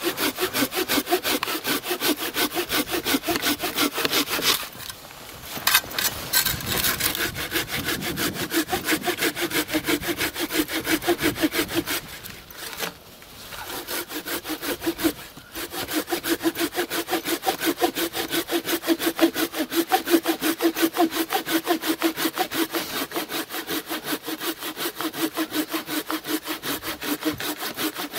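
Fiskars SW75 folding pruning saw cutting through wood in quick, regular back-and-forth strokes, pausing briefly about five seconds in and again between about twelve and fifteen seconds in.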